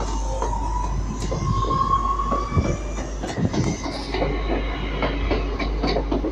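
Northern passenger multiple-unit train rolling past slowly and close, its wheels clicking and knocking over rail joints and pointwork, with a thin steady squeal or whine for the first two and a half seconds.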